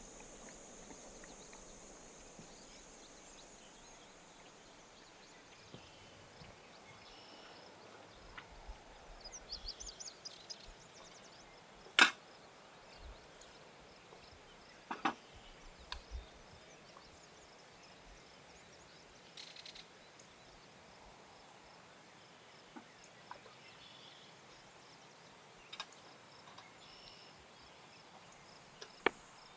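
A campfire burning quietly, its wood crackling with scattered sharp pops and snaps, the loudest about twelve seconds in and a run of small ticks a little before it.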